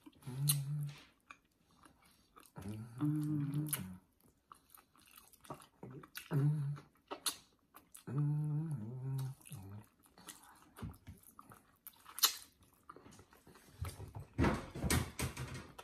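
Someone chewing fried chicken, with sharp lip-smacking clicks and several short low hummed 'mm' sounds of enjoyment. A brief scrape or rustle comes near the end.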